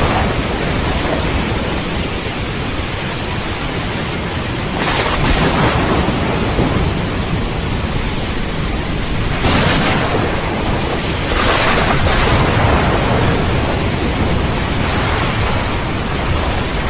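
Thunderstorm: heavy rain falling steadily, with thunder rumbling low underneath. The storm noise swells several times, about 5 and 9 seconds in and again around 12 seconds.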